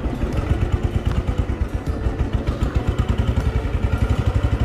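Royal Enfield Thunderbird 350's single-cylinder engine running at low revs, its exhaust beating in a fast, even pulse.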